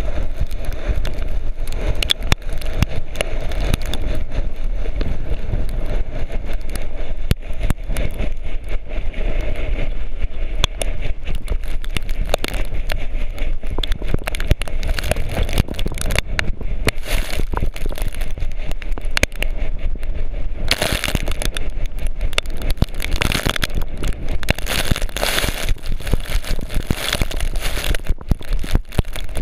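A volcano board sliding down loose volcanic gravel: a continuous gritty scraping with a dense crackle of stones, and wind rumbling on the microphone. About two-thirds of the way through, the hiss of the gravel grows louder and brighter.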